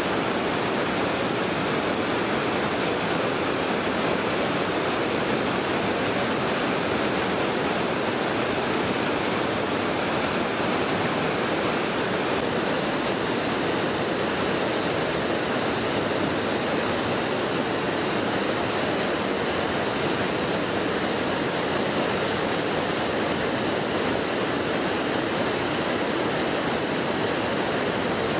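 Mountain river rushing steadily over rocks: a dense, even roar of white water with no breaks.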